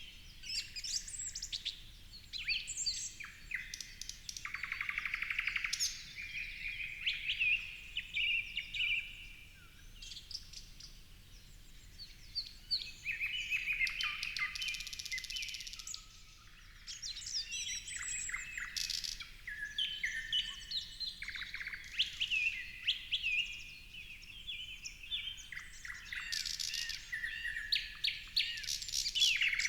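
Several songbirds singing and calling over one another: a steady stream of overlapping chirps and whistles, with a couple of rapid trills.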